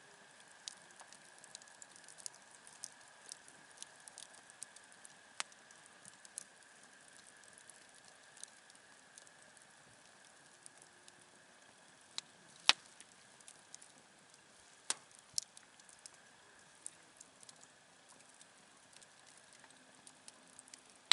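Wood campfire crackling: irregular sharp pops and snaps, one much louder about halfway through, over a faint steady hiss.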